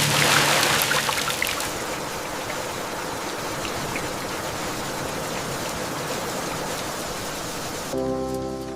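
Steady rain ambience, heavier with scattered drop ticks for the first second and a half, then an even hiss. About eight seconds in the rain drops away and soft ambient music with held chords comes in.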